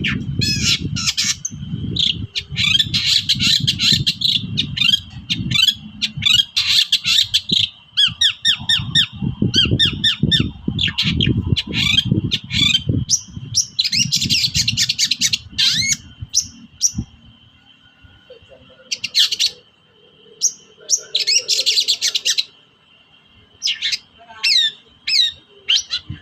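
Long-tailed shrike (cendet) singing agitatedly: harsh squawking scold calls mixed with rapid chattering and mimicked notes, in bursts of a second or two. A low rumbling noise runs under the song for about the first two-thirds, then stops.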